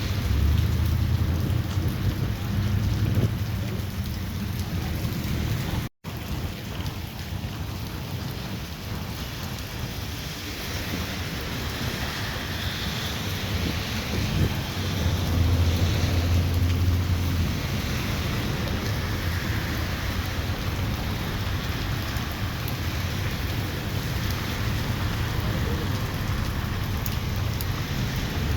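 Heavy rain hissing steadily in a thunderstorm, with low rumbles of thunder near the start and again about halfway through. The sound cuts out for an instant about six seconds in.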